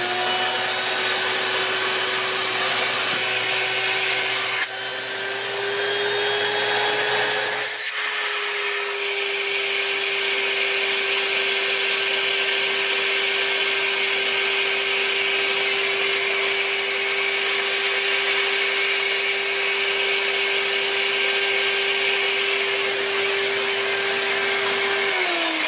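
Central vacuum power unit running with its hose sealed onto a water-lift gauge at the unit, measuring working water lift. The motor whine rises as it spins up at the start, the note shifts about eight seconds in, holds steady, then the motor switches off and winds down near the end.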